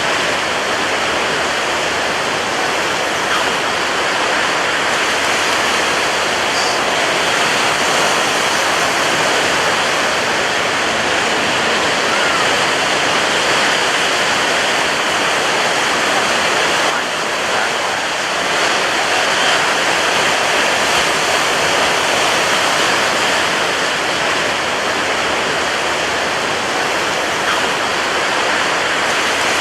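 Ocean surf breaking on a beach: a loud, steady wash of water noise with no separate crashes standing out, dipping briefly a little past halfway.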